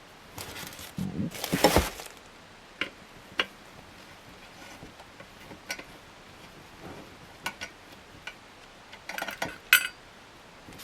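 Metal ceiling-fan hardware and small parts clicking and clinking as they are worked with a screwdriver and handled. There is a louder clattering rattle about a second and a half in, scattered single clicks, and a quick run of clinks near the end.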